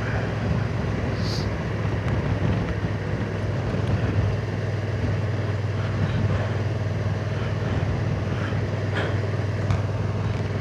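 Honda NT1100's parallel-twin engine running steadily at an easy cruise, under an even rush of wind and road noise.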